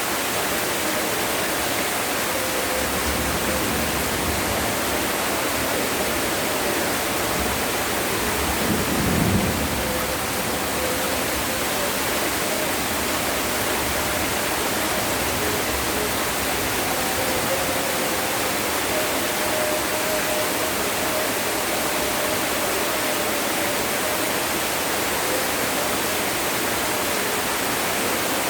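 Heavy rain falling steadily in a dense, even hiss. About nine seconds in, a brief low rumble swells up and fades.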